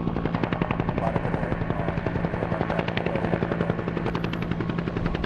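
Bell UH-1H Iroquois (Huey) helicopter running, the rapid, even beat of its two-bladed main rotor over a steady turbine hum.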